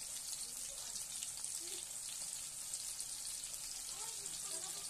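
Sliced onion, tomato, ginger and garlic sautéing in hot oil in a pan, a steady crackling sizzle.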